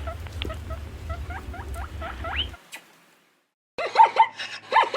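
A small animal squeaking in short rising chirps, several a second, over a low hum. It breaks off about two and a half seconds in, and after a second of silence louder squealing calls begin.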